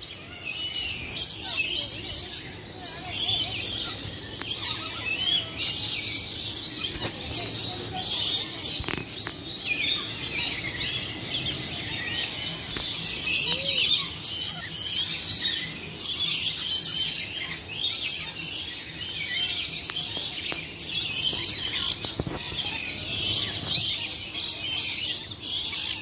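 Many birds chirping and calling at once: a dense, unbroken chorus of short high chirps from an aviary full of birds.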